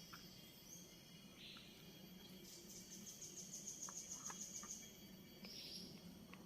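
Faint forest ambience: short, high bird chirps a few times, and a high, fast, even trill lasting about two seconds in the middle.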